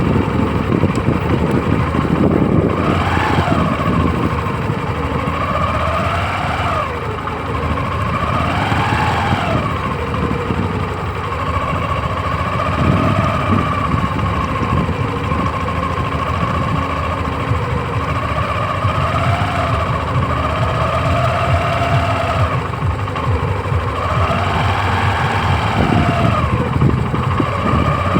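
Tractor diesel engine running, its pitch rising and falling several times as the revs change.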